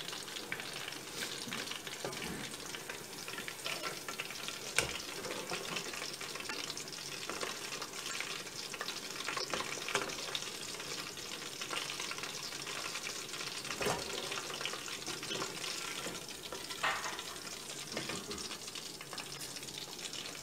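Ground-beef balls frying in hot oil, sizzling and crackling steadily; after about three minutes in the oil they are done and ready to lift out. A few sharp knocks punctuate the sizzle.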